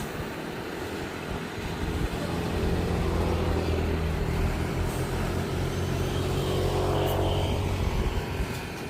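Heavy cargo truck's engine running; it gets louder about two seconds in, holds steady for several seconds, then drops back near the end.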